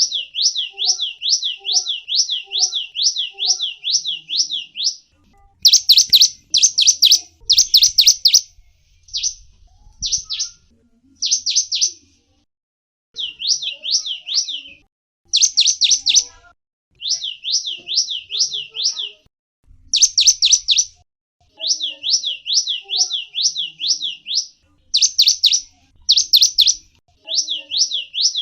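A small songbird (gelatik wingko) calling in fast runs of high, downward-sweeping notes, about five a second. The runs come in phrases of one to several seconds with short pauses between them.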